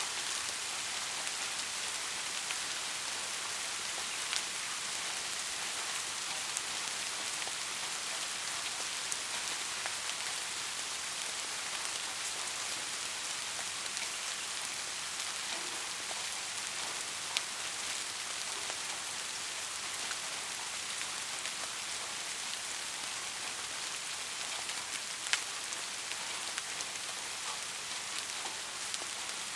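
Steady rain on a roof: an even hiss with scattered, sharper drop ticks.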